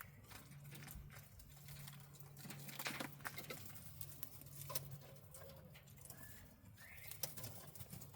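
Quail foraging, with many soft taps and scratches from pecking and feet on the aviary floor, and a few short quiet chirps.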